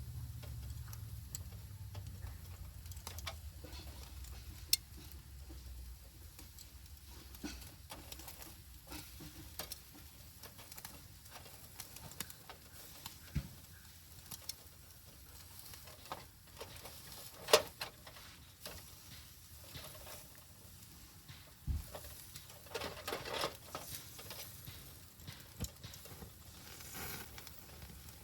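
Wood fire crackling, with scattered sharp pops. The loudest pop comes about two-thirds of the way through, and a quick run of crackles follows a few seconds later.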